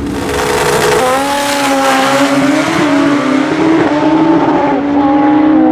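Pro Street drag motorcycle engines running loud at high, fairly steady revs, with a rushing noise that starts suddenly at the beginning.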